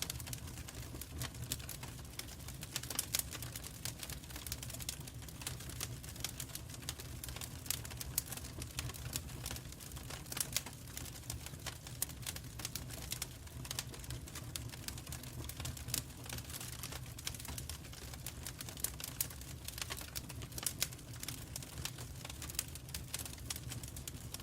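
Wood fire in a fireplace crackling: a dense run of irregular snaps and clicks with now and then a louder pop, over a steady low rumble.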